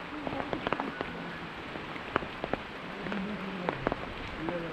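Steady rain falling, an even hiss broken by scattered sharp drop impacts every fraction of a second.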